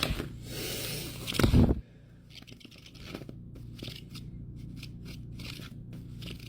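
Paper being handled: a loud stretch of rustling and crinkling for the first second and a half, ending in a bump, then softer scattered rustles of envelopes and cash bills being moved about.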